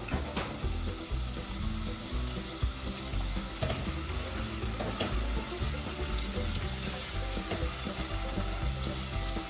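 Sliced chicken strips sizzling as they fry in hot oil in a nonstick pot, stirred with a silicone spoon.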